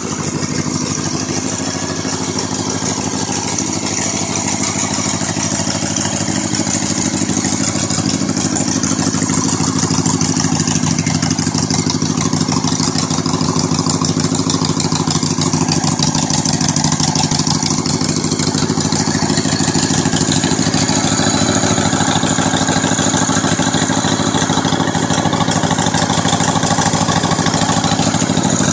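1976 Harley-Davidson Shovelhead V-twin engine idling steadily, growing louder over the first several seconds.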